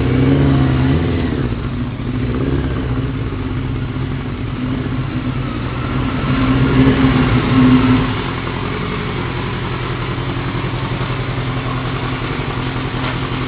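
Motorcycle engine running steadily, picking up in pitch and level for a couple of seconds about six seconds in, then settling back to a steady run.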